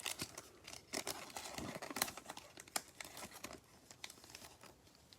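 Trading card pack wrappers crinkling and tearing as Prizm basketball packs are ripped open and the cards handled, a quick run of crackles that thins out in the last second or two.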